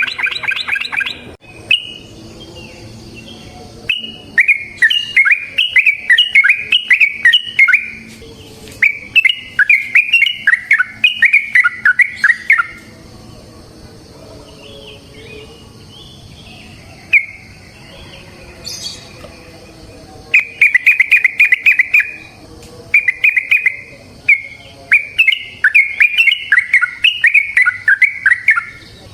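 Yellow-vented bulbul singing long chattering phrases of rapid notes (the 'ropel' song of a bird in full voice). The phrases break off for a quieter lull midway and then start again.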